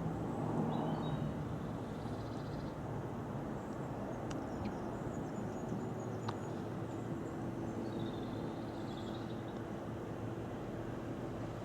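Steady low outdoor rumble, with a hum that shifts to a higher pitch about five seconds in, and small birds chirping now and then over it.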